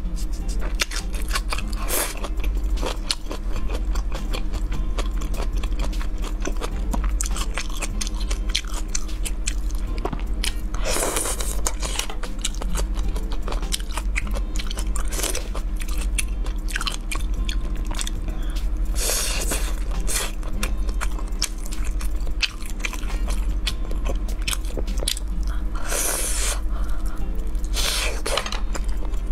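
Close-miked eating of spicy fried skewered food: steady chewing with many crisp crunches and wet mouth clicks, and a few longer rasping noises, over a steady low hum.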